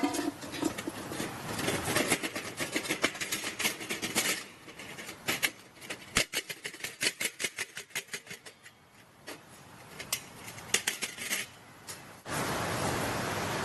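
Rapid clicks, clinks and rustling of camping gear being handled and packed away. About twelve seconds in this cuts to a steady rushing noise.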